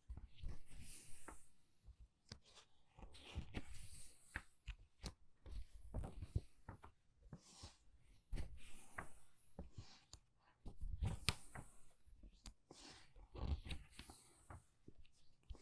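Book pages being turned quickly by hand, each turn a short papery swish with small taps and crinkles, about one every second or two.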